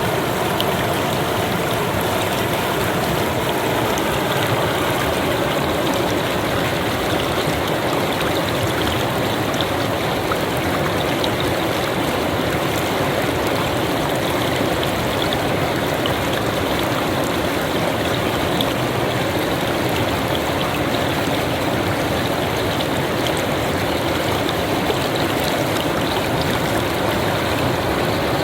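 Donggang river water running steadily over shallows, a constant, fairly loud rushing.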